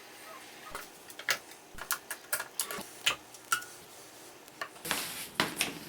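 Irregular sharp clicks and light knocks from tools and wooden chair parts being handled during a glue-up repair, followed near the end by a brief burst of scraping or rustling.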